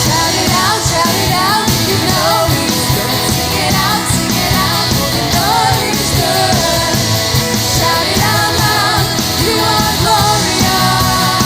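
Worship band playing a loud rock-style praise song, with a melody line that is likely sung.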